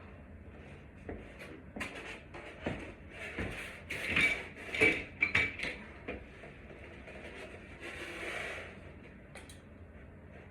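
A run of clicks, taps and short scrapes, with a brief squeak in the middle, from hands and a knife working on the fan's wiring.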